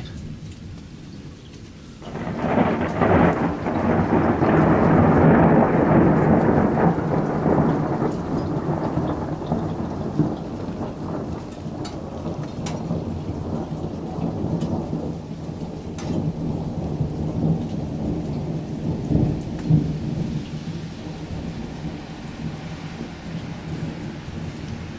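A long, deep thunder roll that breaks in suddenly about two seconds in, peaks, then rumbles on and slowly fades, with steady rain falling underneath and a few sharp drips.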